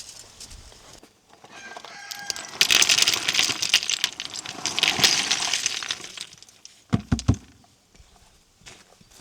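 A chicken calls loudly and harshly for several seconds, in the manner of crowing, starting about a second and a half in. It is followed a little later by two short dull thumps.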